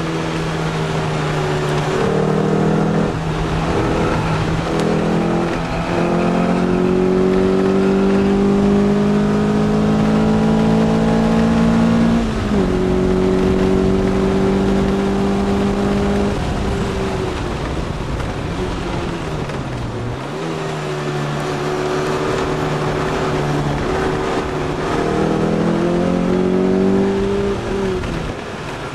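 The onboard S1 Lotus Elise's Rover K-series four-cylinder engine pulling hard on track, its revs climbing steadily through a gear. About twelve seconds in comes an upshift, then the revs fall as the driver lifts off and slows. The engine climbs again and falls once more near the end under braking.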